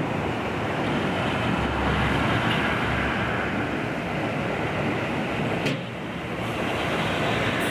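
Steady rush of heavy rain falling in a tropical thunderstorm, with a brief dip in level about six seconds in.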